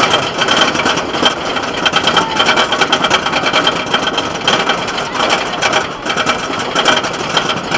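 Steady, rapid mechanical clatter.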